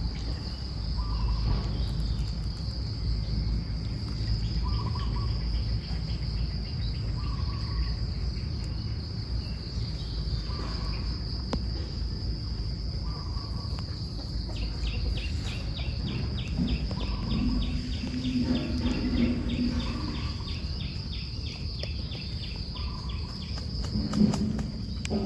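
Insects singing: a steady high trill throughout, joined about halfway through by a second, pulsing trill that stops a few seconds before the end. Short low calls repeat every couple of seconds over a low rumble.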